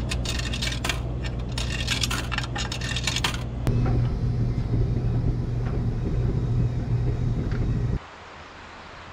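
A steady machine hum with rapid metallic clinking and clicking over it for the first few seconds. The hum carries on a little louder without the clinks, then cuts off abruptly near the end, leaving a faint outdoor hiss.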